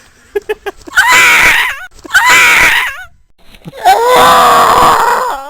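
A person's loud, drawn-out screeching cries, three of them, each about a second long and wavering in pitch at the end.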